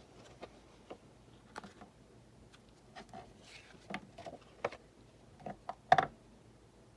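Scattered light taps and clicks of card stock and small craft pieces being handled and set down on a work table, irregular, growing busier and loudest about six seconds in.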